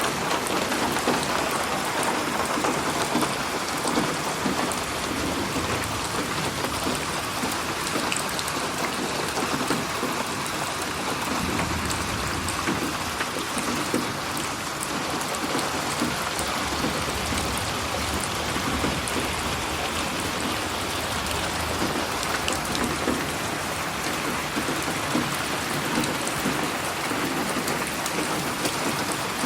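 Steady heavy rain falling and pattering on surfaces, a dense even hiss with fine drop detail.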